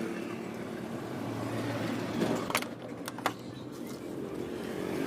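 A few sharp metallic clinks, like tools or engine parts being handled during motorcycle engine assembly, between about two and three and a half seconds in, over a steady background hum.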